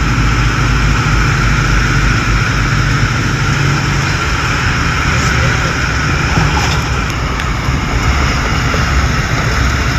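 Steady drone of a 1928 Ford Trimotor's radial engines and propellers, heard from inside its small cabin with wind noise, as the plane comes down to land.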